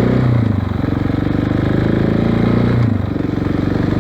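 2016 KTM 690 Enduro R's single-cylinder engine with an FMF slip-on exhaust, running under way on the road. Its pitch holds steady for a couple of seconds, then drops off about three seconds in as the throttle is rolled back.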